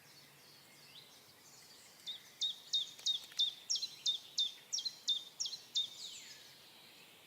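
Nuthatch singing a series of about a dozen evenly spaced, falling whistled notes, about three a second. Another bird gives a single downward-sweeping call near the end.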